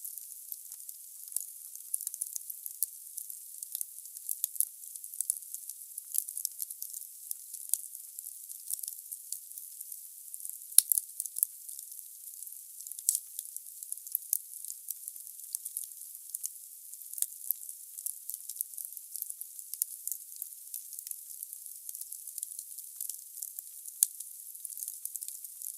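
Wood fire burning in a fireplace: a dense, thin crackle of burning logs over a soft hiss, with two sharper pops, one about eleven seconds in and one near the end.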